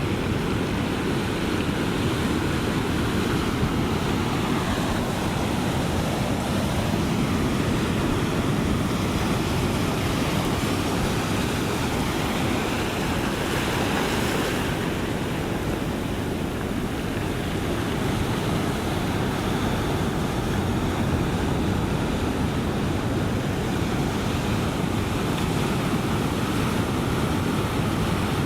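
Ocean surf washing in a steady, unbroken rush of waves, with no single crash standing out.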